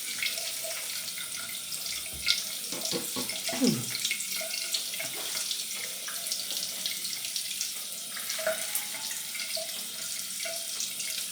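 Water running steadily from a tap into a sink, with a few light clicks and knocks.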